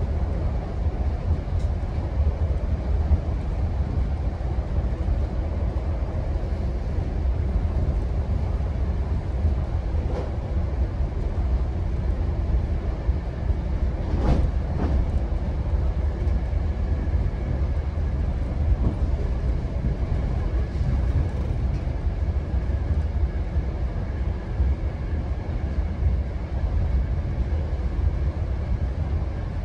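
GO Transit commuter train running along the line: a steady low rumble of wheels on rails, with a sharp click about fourteen seconds in.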